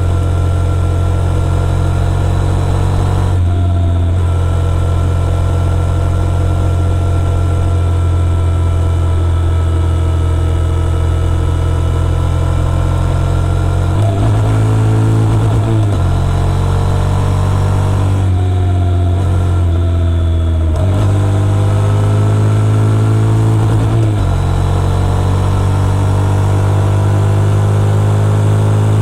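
Motorcycle engine running under way. The note holds steady for about the first half, then falls and rises several times as the revs change.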